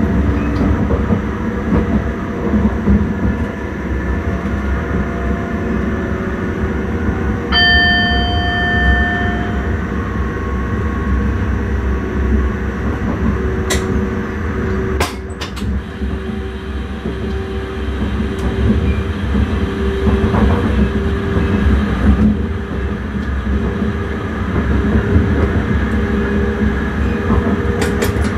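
Steady running rumble of an intercity train heard from inside the driver's cab. About seven and a half seconds in a short ringing tone sounds for about a second and a half, and a few sharp clicks come later.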